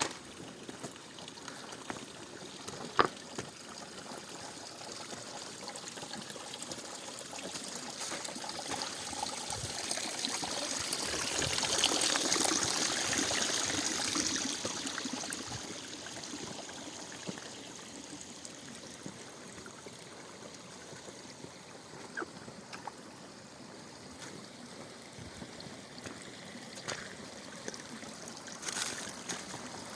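Mountain stream water trickling and running steadily, growing louder for a few seconds in the middle and then easing back, with a single sharp knock about three seconds in.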